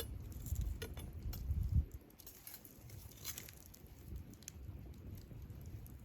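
Wood campfire crackling with scattered sharp pops, over a low rumble that stops about two seconds in.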